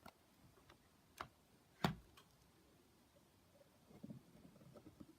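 A few faint, scattered clicks and taps, the loudest about two seconds in, then soft brief rustling near the end.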